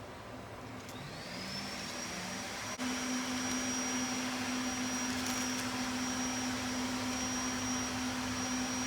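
An electric motor spinning up with a rising whine that levels off into a steady high tone. A click comes about three seconds in, followed by a steady hum and a rush of air noise.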